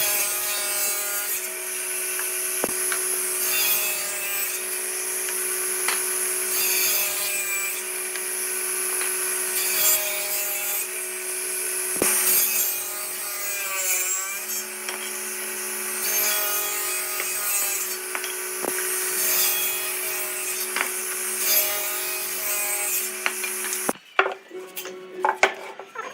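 Wood lathe running with a turning tool cutting and scraping the spinning wood: a steady motor hum under a rasping cut whose pitch shifts as the tool moves. Near the end it stops abruptly, giving way to scattered knocks and clatter.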